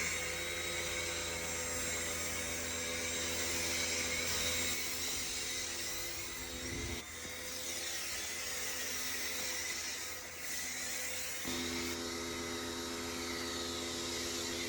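A small motor running steadily, a hum with a hiss over it; the hum falls away about halfway through and comes back near the end.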